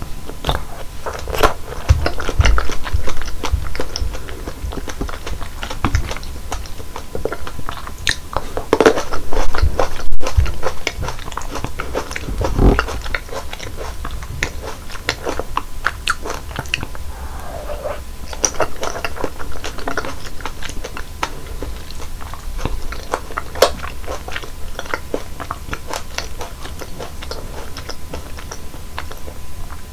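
Close-miked biting and chewing of fresh fruit: wet, crunchy bites and mouth sounds with many small irregular clicks. The sounds come in louder spells a few seconds in and again near the middle.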